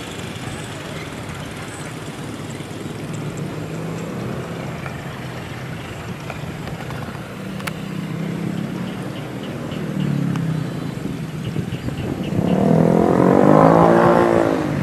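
Passenger train running on the rails as it pulls away, a steady low rumble with a low hum. About twelve and a half seconds in, a louder vehicle sound swells close by and fades over about two seconds.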